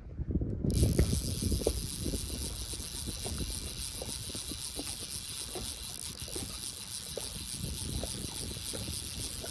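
Fly reel's clicker drag spinning fast as a hooked fish runs line and backing off the spool, a continuous rapid ratcheting that comes in about a second in, with low rumble underneath.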